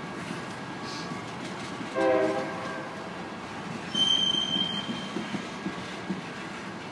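BNSF freight train's gondola cars rolling past with a steady rumble of steel wheels on rail. About two seconds in a short horn note sounds for half a second. About four seconds in a wheel gives a high-pitched squeal for about a second.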